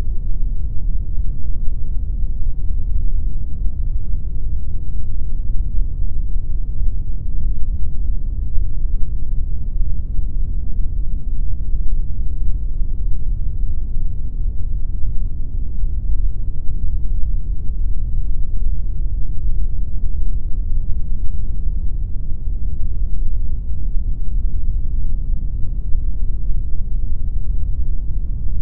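Steady, unbroken pink noise: an even, deep hiss weighted heavily toward the bass, with little treble and no changes or events.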